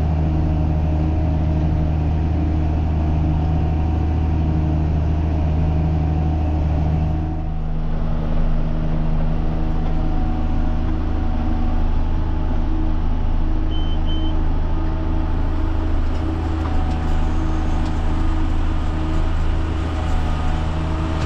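John Deere 7510 tractor running steadily under load while pulling a round baler through a hay windrow. The engine note shifts about seven and a half seconds in.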